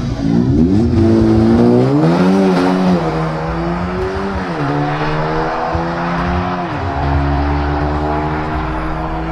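Volkswagen Tiguan SUVs accelerating flat out from a drag-race launch. The engine pitch climbs through each gear and drops sharply at three upshifts, about three, four and a half and seven seconds in.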